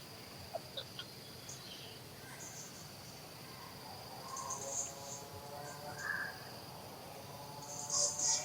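Insects droning in a steady high tone, with short higher chirps coming again and again, the loudest near the end. A faint pitched call sounds around the middle.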